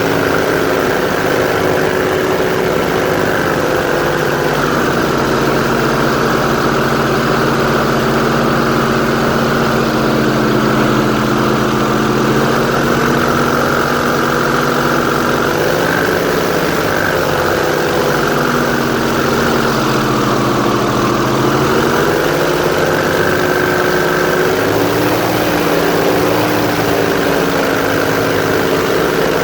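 Airboat engine and air propeller running steadily under way, their pitch drifting up and down a little.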